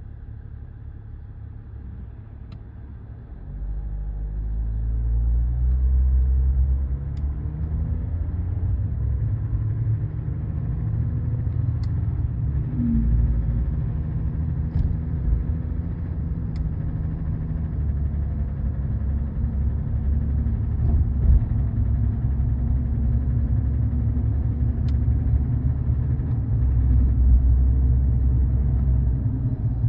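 3.0 L Duramax LM2 inline-six diesel running with a low rumble. It speeds up about four seconds in, then runs steadily. The knocking noise it makes sets no trouble codes.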